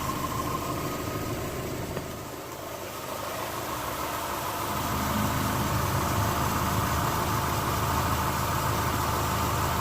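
Mitsubishi Lancer engine idling steadily, with no exhaust-leak tick: the repaired exhaust leak is sealed. The sound dips a little about two seconds in and comes back up a few seconds later.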